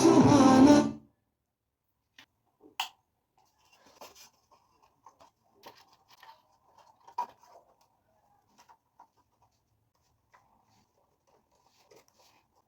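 A Hindi song playing through the repaired amplifier's speaker cuts off suddenly about a second in. After it come faint, scattered clicks and scratching, with one sharper click a few seconds later.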